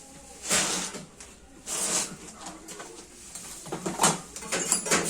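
Several short scraping or rubbing noises with a few light knocks and clicks, as of hard objects being handled.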